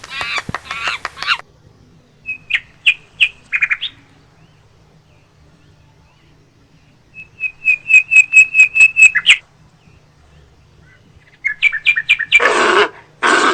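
A monkey making high-pitched chirps in short rapid runs, with harsher, louder calls near the end.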